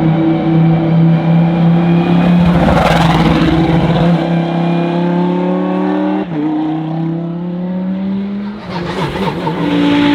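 Lamborghini Huracán Super Trofeo EVO2's V10 race engine accelerating hard, its pitch climbing steadily. About six seconds in the pitch drops suddenly at an upshift and climbs again. Near the end the engine comes off the throttle with a burst of crackles and pops from the exhaust.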